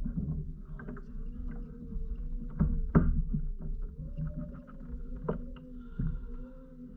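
Kayak under way on the water while trolling: a low rumble with a faint steady hum, and a few sharp knocks, the loudest about three seconds in.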